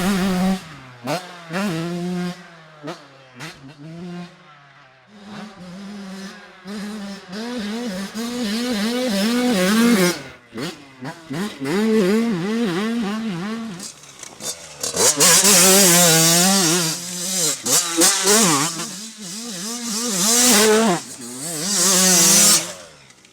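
Small two-stroke motocross bike engines revving hard, the pitch climbing and dropping again and again as the riders work the throttle and shift. The engines are quieter twice in the first half and loudest a little past the middle.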